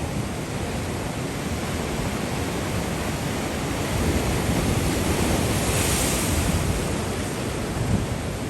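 Surf breaking and washing on the shore. A wave swells to a louder rush about halfway through, with wind on the microphone.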